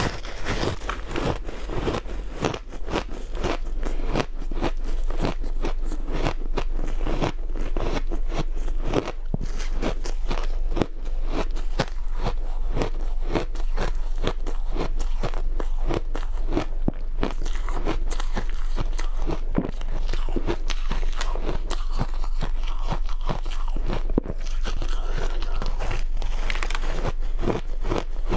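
Close-miked biting and chewing of powdery snowballs of frozen ice: a dense, irregular run of crisp crunches with no break, over a faint steady low hum.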